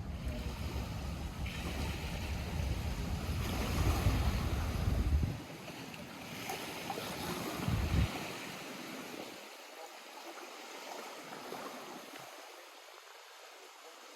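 Small lake waves lapping, with wind buffeting the microphone as a heavy low rumble for the first five seconds or so and briefly again about eight seconds in; after that the water is heard alone, more faintly.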